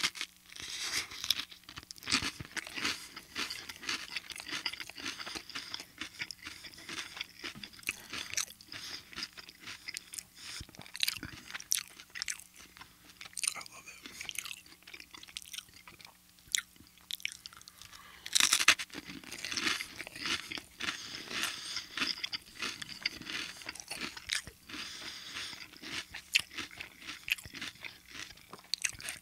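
Close-up crunching of crisp toast rounds topped with a creamy salad being bitten and chewed. Loud crunching bites at the start and again about two-thirds through, with steady crackly chewing between.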